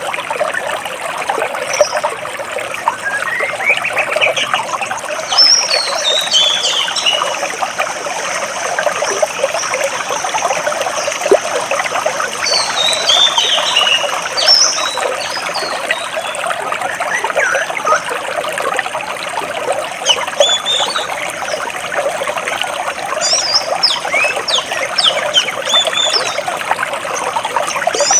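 Water flowing and splashing between large rocks in a steady rush, with small birds chirping over it now and then in short high phrases and falling trills.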